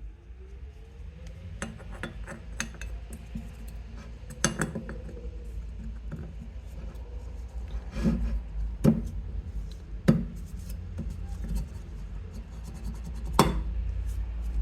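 Metal tools and engine parts clinking and knocking during hand work on a scooter engine, with scattered light clicks and a few sharper knocks, over a steady low rumble.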